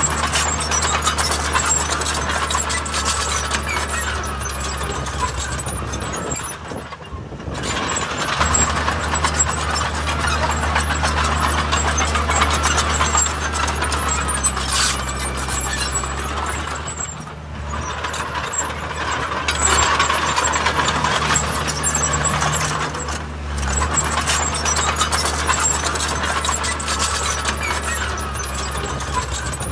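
Heavy diesel construction machinery working under load: a deep, steady engine note with continuous mechanical rattling and clatter. It eases off briefly three times, about a quarter, more than halfway and three-quarters of the way through.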